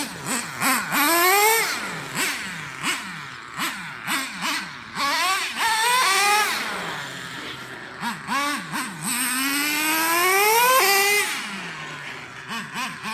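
Traxxas T-Maxx 3.3 RC truck's small nitro engine revved in quick throttle blips from a low idle, with three longer revs climbing to a high-pitched scream, the longest near the end, before dropping back to idle.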